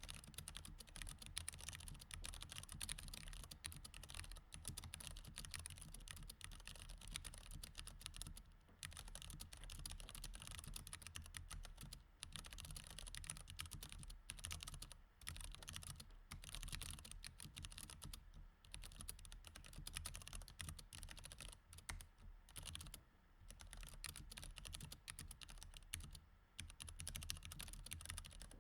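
Mechanical keyboard with Cherry MX Red switches being typed on continuously: quick runs of keystrokes broken by short pauses every few seconds.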